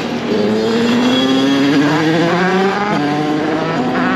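Derbi motorcycle engine accelerating under load. Its pitch rises steadily, drops at a gear change about three seconds in, then starts climbing again.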